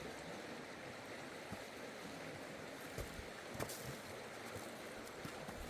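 Steady rushing of water, rain or a stream, with a couple of light knocks near the middle.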